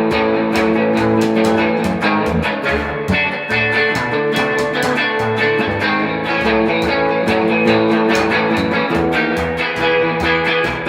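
A band playing a guitar boogie: electric guitar and bass guitar over a steady, even beat, with no singing.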